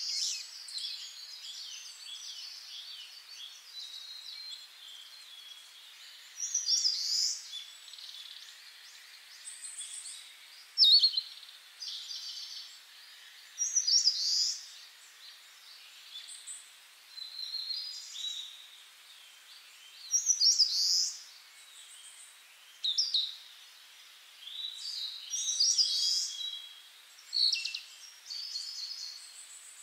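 Songbirds chirping and singing in short bouts of quick, high notes every couple of seconds, over a faint hiss.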